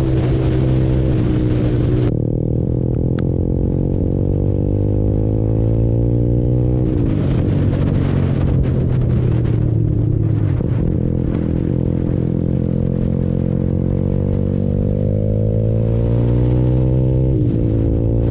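Honda CBR150R's single-cylinder engine heard from the rider's seat while riding, pulling through the gears. The note climbs slowly and drops back at each upshift, several times, over wind and road noise.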